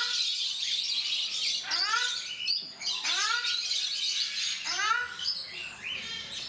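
Ruddy shelducks giving their loud honking calls, three bouts of short nasal honks, each honk rising in pitch.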